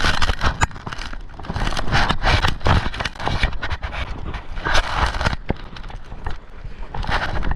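Wind buffeting the microphone with rushing, splashing water and scattered knocks, as heard aboard a 470 sailing dinghy under way.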